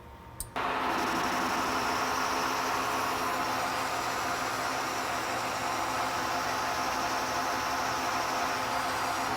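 A machine tool is switched on with a click about half a second in, and its electric motor and drive then run steadily with an even hum and whine over a hiss.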